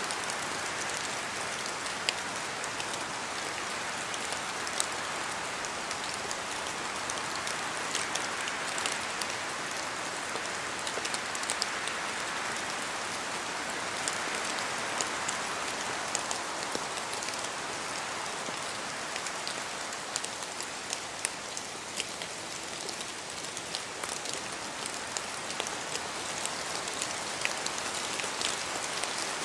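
Steady rain falling through forest trees, a continuous hiss that swells gently now and then, with many sharp individual drops ticking close by.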